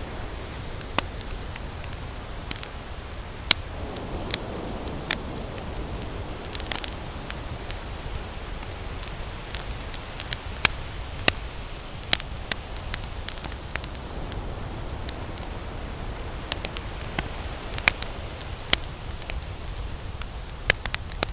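Wood campfire crackling, with sharp irregular pops, a few of them loud, over a steady low rush.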